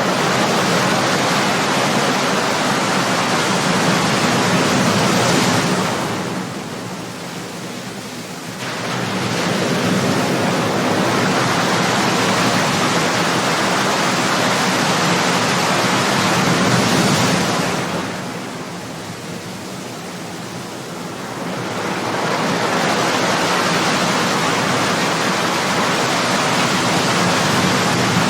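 Ocean surf: waves breaking and washing in as a continuous rush of water noise, easing off twice into a quieter lull between waves before the next one builds.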